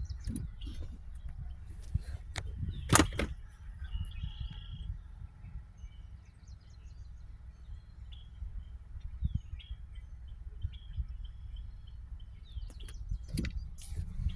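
Faint short bird chirps and whistles over a steady low wind rumble on the microphone, with a few sharp knocks, the loudest about three seconds in.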